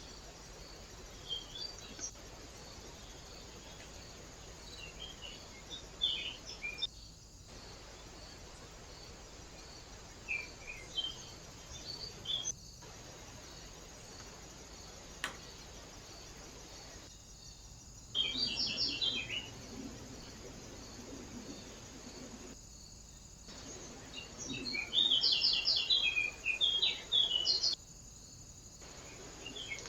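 Small birds chirping at a feeder in scattered short bursts of quick high notes, busiest and loudest in the second half, over a faint steady hiss, with a few brief drop-outs.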